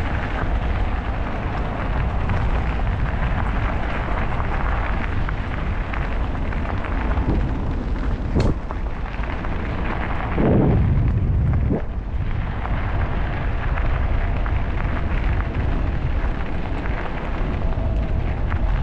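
Steady wind buffeting the microphone as the e-bike rolls along. There is a sharp click about eight seconds in, and a louder low rumble for a second or so around ten seconds in.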